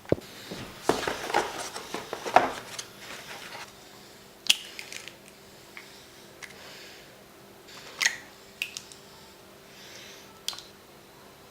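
Kitchen handling noises while a protein shake is made: a burst of rattling and knocking, then a few separate sharp clicks.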